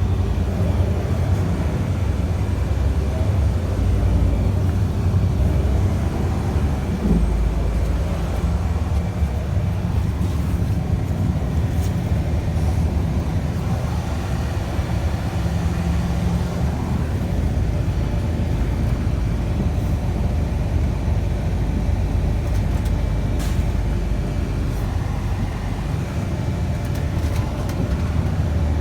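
Scania bus under way, its engine and road noise forming a steady low rumble heard from aboard, with a few faint clicks.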